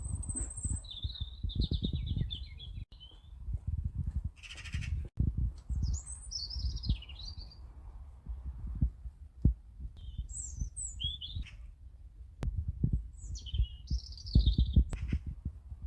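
Songbirds singing, several separate warbling and whistled phrases with short gaps between them. Low, irregular thumping noise lies underneath.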